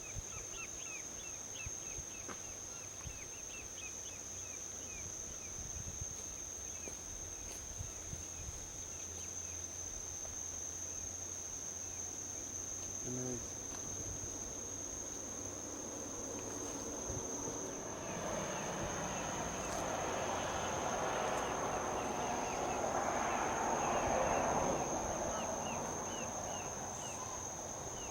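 Steady high-pitched insect trill with short repeated chirps, over a constant low rumble of distant traffic. Partway through, a passing vehicle's noise swells up, peaks and fades away near the end.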